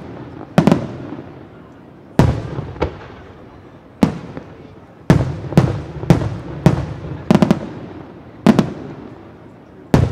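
Aerial firework shells bursting overhead: about a dozen sharp bangs at irregular intervals, some in quick pairs and triplets, each trailing off in a rolling echo.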